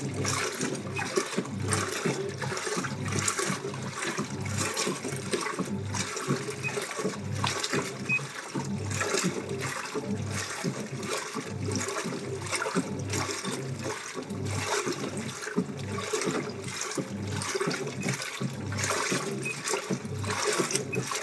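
Washing machine mid-cycle: water sloshing and splashing as the drum turns with the load, in an even rhythm a little more than once a second.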